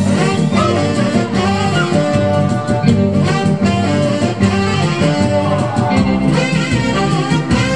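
Live band music: an instrumental break between sung lines, with a steady beat.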